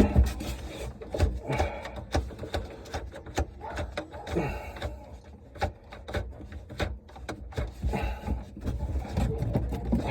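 Irregular scraping, rubbing and clicking as a dishwasher is worked and adjusted into its cabinet opening.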